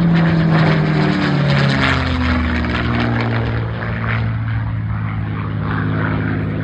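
North American P-51D Mustang's Packard-built Merlin V-12 engine and propeller passing by in flight. The engine note falls in pitch over the first couple of seconds as the plane goes past, then holds steady.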